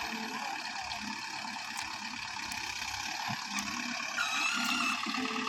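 Tractor engine running steadily as the tractor is driven forward.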